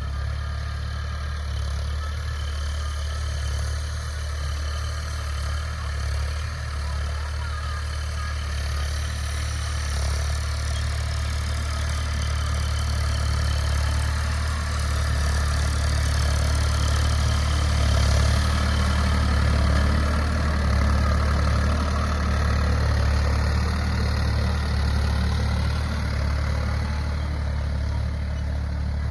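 Ford 3600 Turbo tractor's three-cylinder diesel engine running steadily with a deep, even drone, getting a little louder around the middle.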